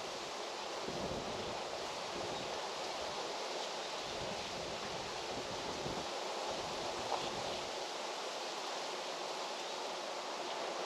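Wind blowing through trees, a steady rustle of leaves, with gusts buffeting the microphone now and then.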